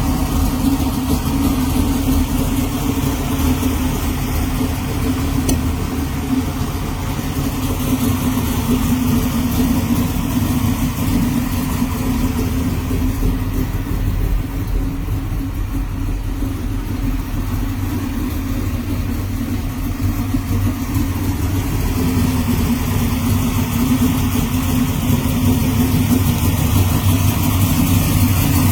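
1987 Mercury Cougar XR7's 410 cubic-inch Windsor stroker V8, built with a TFS Stage 3 camshaft, running steadily at idle, a little quieter in the middle.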